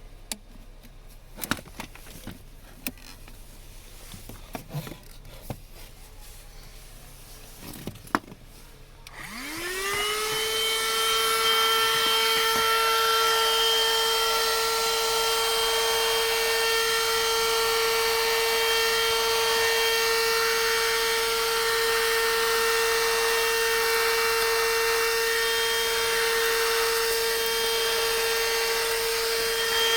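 Handheld 12-volt car vacuum (Niecarva SV07, 150 W DC motor): a few clicks and knocks of handling, then about nine seconds in the motor switches on. It spins up in a quick rising whine and settles into a loud steady high whine over rushing air.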